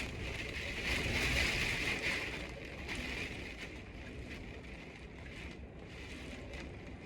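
Typhoon wind blowing hard, with gusts buffeting the microphone; a gust peaks in the first couple of seconds and then eases.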